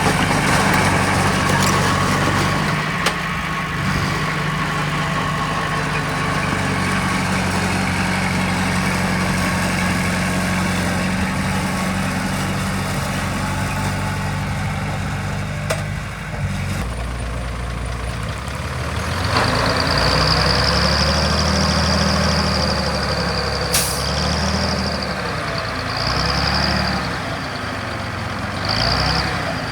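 Heavy diesel earthmoving machinery running steadily, its engine note shifting lower a little over halfway through. From about two-thirds of the way in, a high-pitched squeal comes and goes over the engine.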